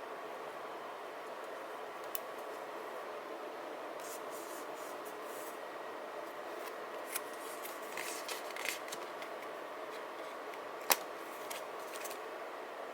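Scissors snipping paper in a few short scattered cuts and rustles, with one sharp click about two seconds before the end, over a steady low hum.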